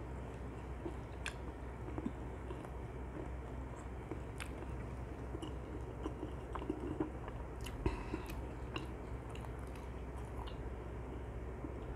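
Close-miked chewing of sticky, sauce-glazed Korean fried chicken (dakgangjeong), with scattered short wet clicks from the mouth.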